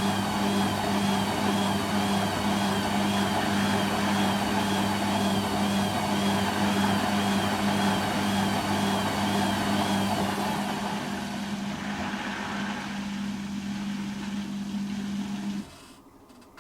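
Hoover Quattro Power Jet Easylogic AE130 washing machine spinning its drum at high speed, with a steady motor hum and a wavering whine. About ten seconds in the spin begins to wind down, and the sound cuts off sharply near the end.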